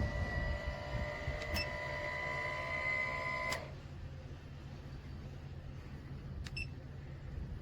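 Small electric motor in an RV roof vent fan unit whining steadily, then stopping with a click about three and a half seconds in, leaving a low steady hum.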